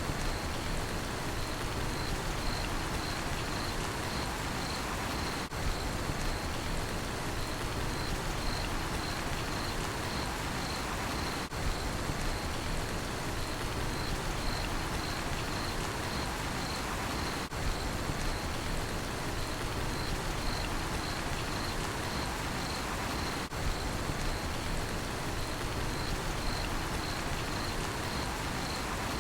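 Steady rain falling, with crickets chirping in a high, even, pulsing trill. The level dips briefly about every six seconds.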